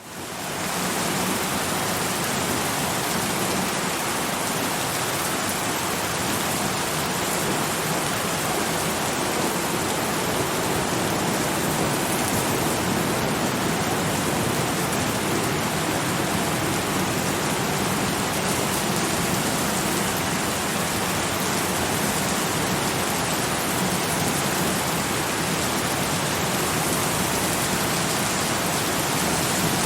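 Steady, dense rainfall, an even hiss of rain with no separate drops or thunder standing out, fading in over the first second.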